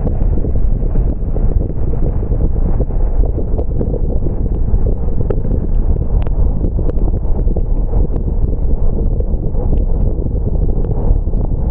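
Steady low rumble of a car driving on wet roads in the rain, with many small, irregular ticks scattered through it.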